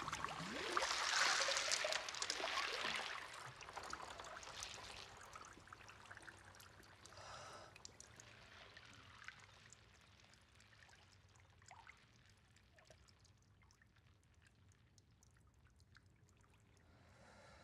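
A rushing, pouring hiss with scattered small clicks, loudest in the first three seconds and then fading to a faint crackle.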